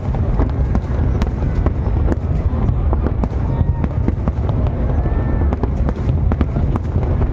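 Aerial fireworks display: a continuous low rumble of shell bursts, with many sharp crackling pops scattered on top.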